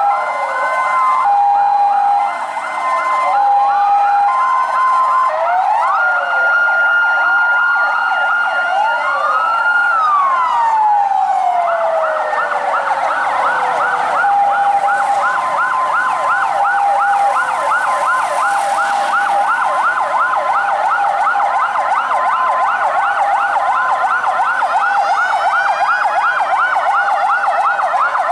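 Several fire truck sirens sounding at once and overlapping: a two-tone hi-lo siren, slow wails rising and falling, and one held tone that drops away about ten seconds in. A fast yelp warble then takes over for the rest.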